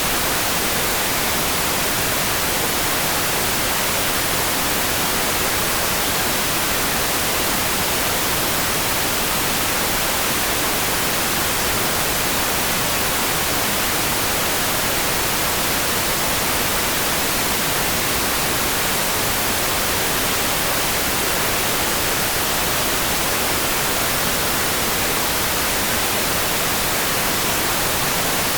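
Steady rain sound: an even, unbroken hiss, brightest in the high end, with no separate drops or changes.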